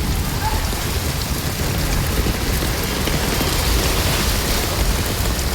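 Heavy rain falling steadily, a constant hiss with a deep rumble beneath it.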